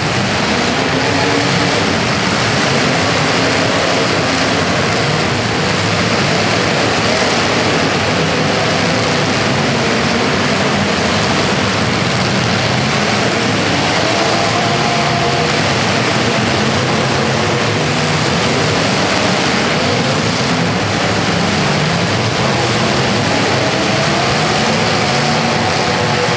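Engines running loudly and without a break, their pitch drifting up and down.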